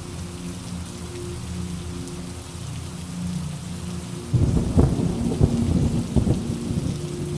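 Steady rain, then a sudden clap of thunder a little past halfway in that rolls on as a crackling rumble for about three seconds.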